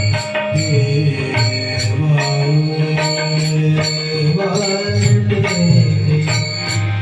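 Marathi devotional bhajan music between sung refrain lines: tabla and ringing hand cymbals keep a steady beat under sustained melody.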